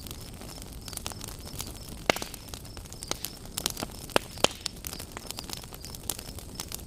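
Wood campfire crackling, with irregular sharp pops, a few of them louder.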